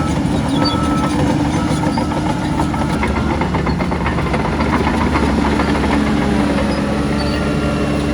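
Shantui crawler bulldozer working: its diesel engine runs steadily under load while its steel tracks clank and rattle.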